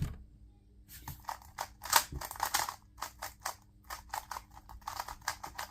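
Plastic 2x2 speed cube being turned very fast, a rapid run of clicking and clacking in quick bursts that starts about a second in.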